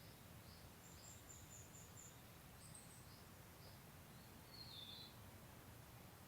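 Faint chirps from small birds: a quick run of about six high notes, a few single chirps, and a stronger call about five seconds in, over a steady low outdoor rumble.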